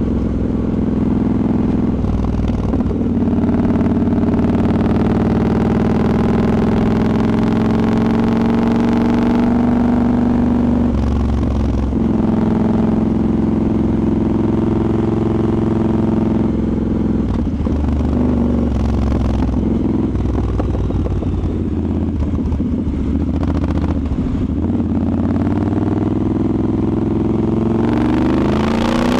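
Triumph Scrambler 1200's parallel-twin engine under way, pulling up through the revs with breaks at gear changes, then climbing sharply again near the end. Wind rushes over the microphone.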